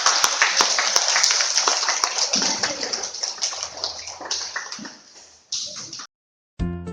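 Audience applause, a dense patter of many hands clapping that thins out after about four seconds, swells briefly again, then cuts off abruptly; music starts just before the end.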